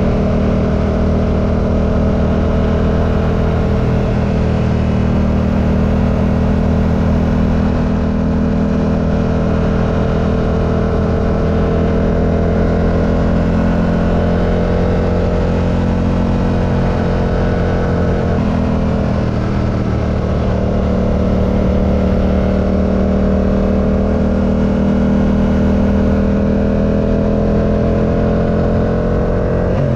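Yamaha R7's 689 cc parallel-twin engine running under way at a fairly steady cruise, its pitch drifting slowly up and down. About two-thirds of the way through the pitch drops briefly, then builds again.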